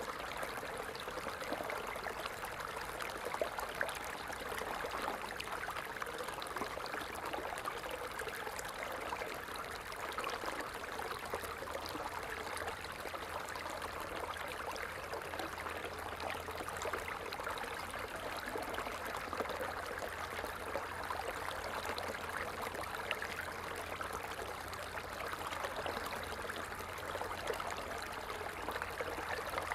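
Water falling and splashing in a steady, continuous rush, like a small cascade or stream.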